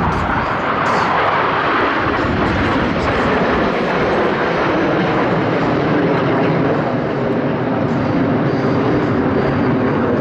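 Blue Angels F/A-18 Super Hornet jets in formation flying by, a loud, steady jet roar whose pitch drops gradually as they pass.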